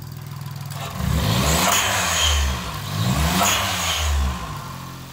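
Daihatsu Copen LA400K's turbocharged three-cylinder engine blipped twice. Each rev rises and falls, and at each throttle lift the HKS blow-off valve vents boost with a sharp hiss.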